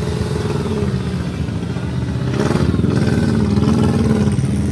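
Off-road vehicle engine revving under load, its pitch rising and falling, louder from about two seconds in, with a short hiss at the same point.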